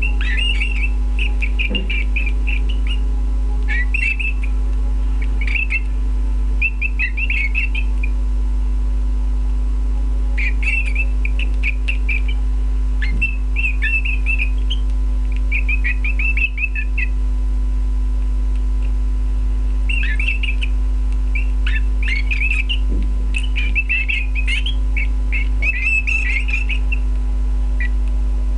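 Canaries chirping in quick bursts of rapid twittering notes, repeated every second or two with pauses of a few seconds, over a steady low hum.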